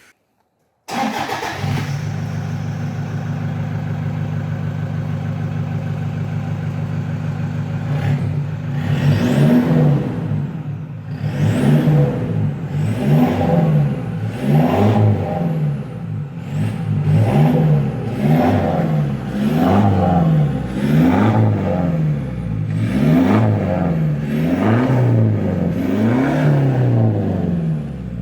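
Toyota Hilux turbo diesel engine running through a muffler-delete exhaust: it idles steadily, then about eight seconds in is blipped again and again, a rev about every second and a half, with the turbo whistle climbing and falling with each rev.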